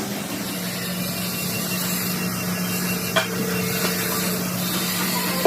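Steady workshop machine hum with a hiss, and a single short knock about three seconds in.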